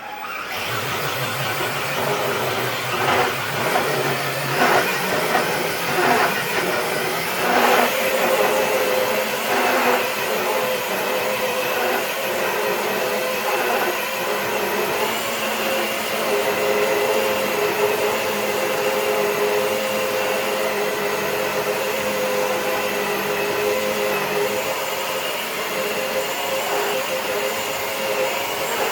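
Electric RC truck's motor and drivetrain whining under load as it drags a weighted dead sled across concrete, with the sled scraping along the surface. There are several short surges in the first ten seconds, then a steady whine.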